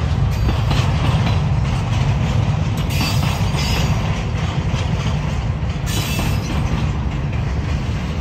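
Freight train rolling past with a steady, heavy rumble of wheels on rail, and brief high metallic sounds about three and six seconds in.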